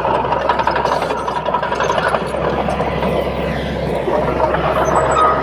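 Crawler bulldozer's diesel engine running steadily under work, with rapid metallic clicking and clanking from the tracks over it.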